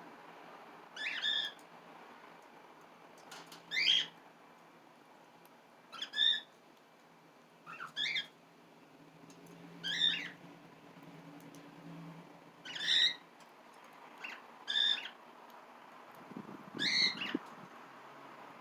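A cockatiel calling over and over: about eight loud, rising calls, one every one to three seconds.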